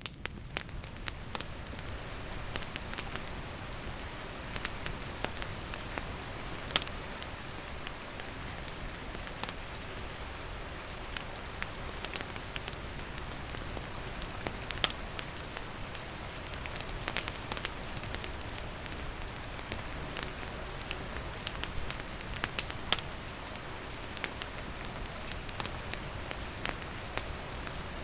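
Steady rain falling, with a campfire crackling and snapping in sharp, irregular pops throughout.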